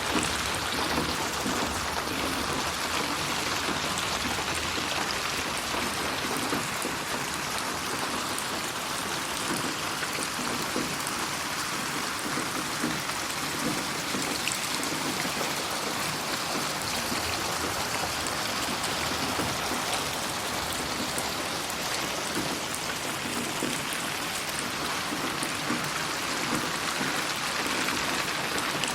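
Steady rain falling, an even patter of drops on a surface, with no let-up and no thunder.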